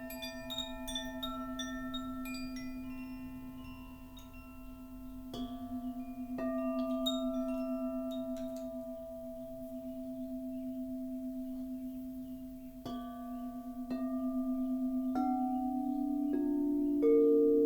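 Singing bowls ringing with a steady, slightly wavering drone, with a flurry of short high chime notes in the first few seconds. Further bowls or chimes are struck every few seconds, each adding a new ringing tone, and the loudest strike comes near the end.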